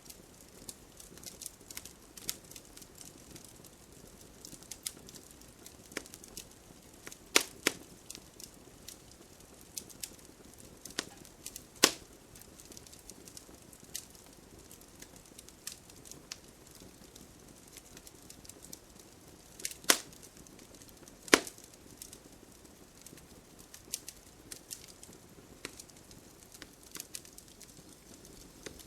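Wood campfire burning with a soft steady hiss and scattered crackles, and a few louder pops: two close together about seven seconds in, one near twelve seconds, and two around twenty to twenty-one seconds.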